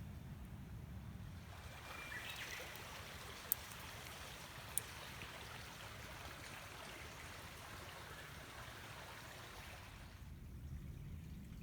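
Running water, a steady hiss that comes in shortly after the start and fades out near the end, with two sharp clicks partway through.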